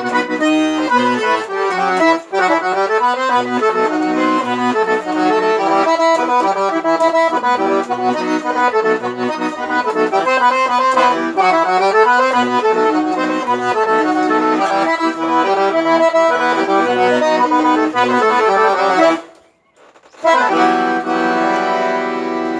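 Accordion (sanfona) playing a lively instrumental melody over evenly pulsing bass notes. The playing stops abruptly about 19 seconds in, and about a second later a single chord starts and is held.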